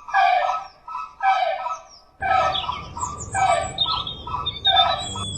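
A bird, likely domestic fowl, calling over and over, a short call about once a second, with higher chirps joining from about three seconds in. A steady background hum and hiss comes in a little after two seconds.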